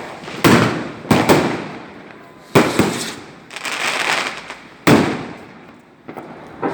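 Bonfire Night fireworks going off: about half a dozen sharp bangs at uneven intervals, each trailing off, with a longer, noisier stretch of bursting about three and a half seconds in.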